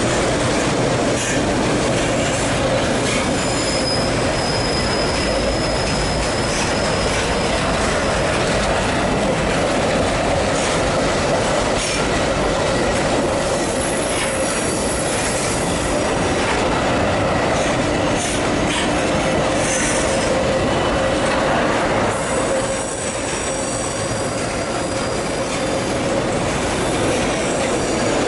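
Freight train wagons rolling past, steel wheels squealing as they run through a curve, with clicking over the rail joints.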